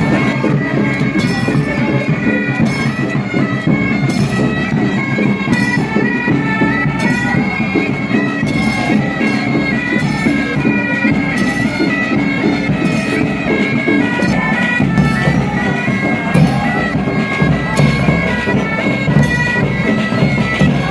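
Bagpipes playing a march tune, the melody stepping over steady drones beneath it.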